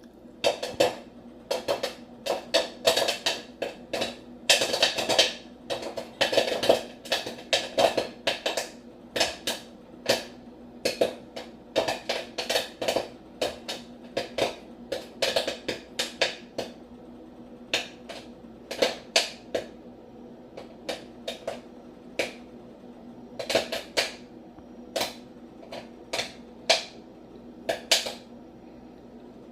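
Irregular sharp clicks and taps, often in quick clusters, thinning out in the second half, over a steady low hum.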